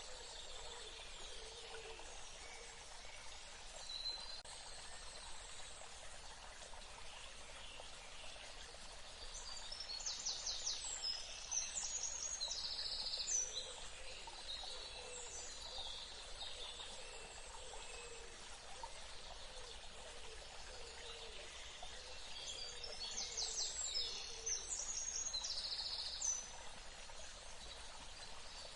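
A songbird sings a short, varied phrase of quick chirps twice, about ten seconds in and again about twenty-three seconds in. A steady hiss of ambience runs underneath.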